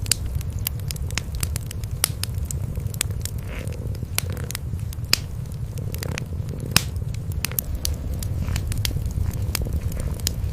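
Cats purring in a steady low rumble, with a wood fire crackling in sharp, irregular pops over it.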